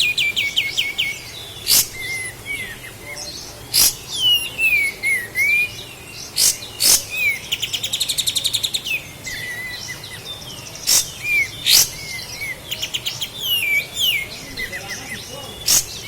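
A kapas tembak (a bulbul) singing: bright repeated chirps, quick ticking trills and short falling and rising whistled sweeps. About six sharp cracks stand out among the song, at irregular intervals.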